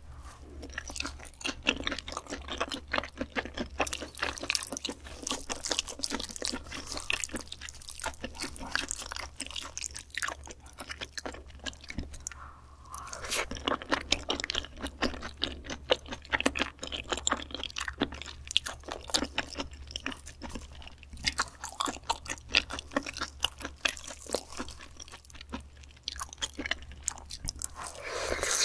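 Close-miked chewing of a mouthful of raw beef tartare (yukhoe) with egg yolk: dense small mouth clicks, a short lull about halfway through, and another mouthful taken near the end.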